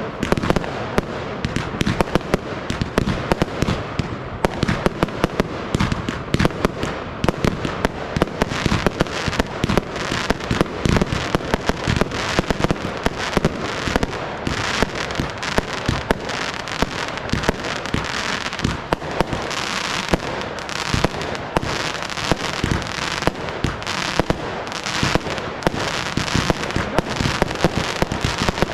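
Fireworks display going off in a dense, unbroken barrage of bangs, many per second.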